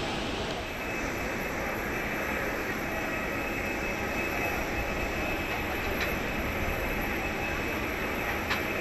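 Steady rumble of jet airliner engines with a thin, steady high whine over it, and a few faint clicks near the end.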